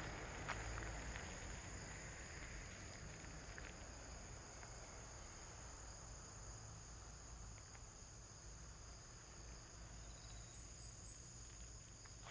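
Faint, steady chirring of insects such as crickets, a continuous high trill over low outdoor background rumble.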